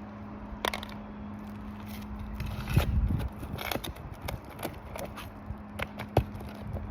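Asphalt roof shingles being loosened and their nails pried out: irregular scraping with sharp clicks and taps, over a steady low hum.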